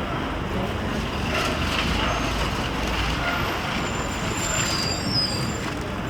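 City street traffic with a heavy vehicle such as a bus or truck running close by: a steady low rumble of engine and tyres. A few short high squeaks come in the second half.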